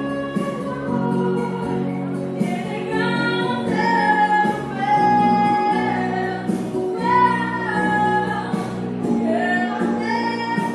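A female solo voice singing a melody in long held notes over instrumental accompaniment.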